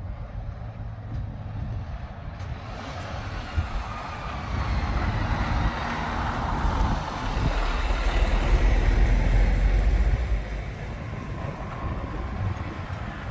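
Heavy lorry's diesel engine rumbling as it drives past, growing louder to a peak about eight to ten seconds in, then dropping away.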